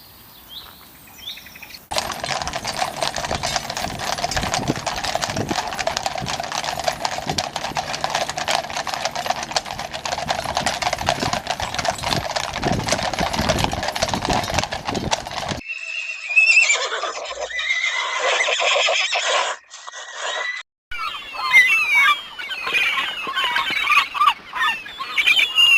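Horse sounds in several short cut-together clips: a long stretch of many hoofbeats, then whinnying calls that waver in pitch near the end.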